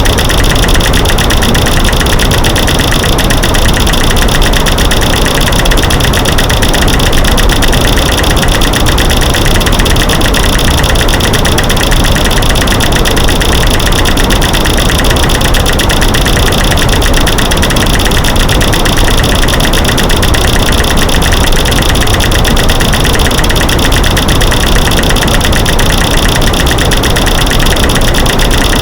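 Dense, rapid clicking and cracking mixed from light-switch clicks, snapping sticks and rocks knocking together, over a steady white-noise hiss. Loud and unbroken, with no pauses.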